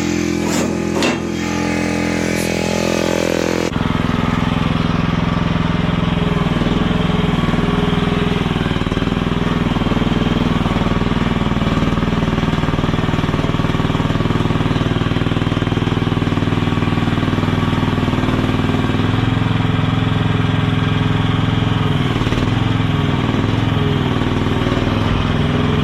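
Engine of a small piece of compact equipment running steadily at working speed. About four seconds in the sound changes abruptly, then it runs steadily again.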